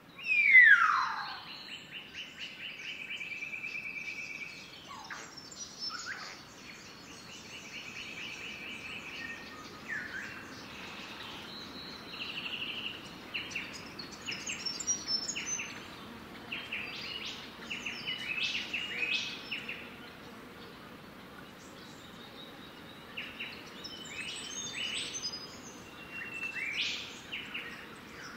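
Birds calling in dense vegetation: one loud falling whistle about a second in, then held trills and scattered bursts of short chirps over a faint steady outdoor background.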